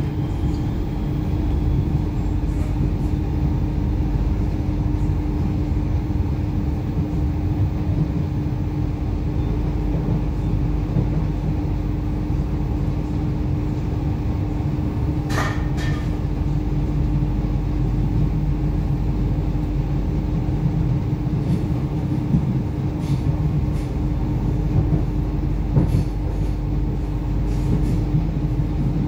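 Inside an 8520 class DART electric train in motion: a steady low rumble of the wheels on the track with a constant hum underneath. About halfway through there is one brief, sharp, high-pitched sound, and a few faint clicks follow.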